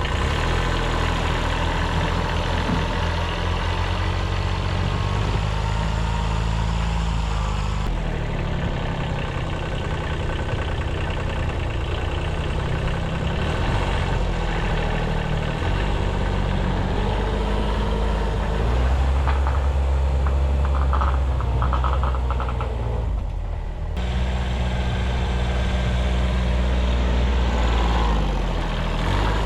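1978 Kubota B6100 compact diesel tractor engine running steadily. Its speed shifts up and down several times as it works in deep snow.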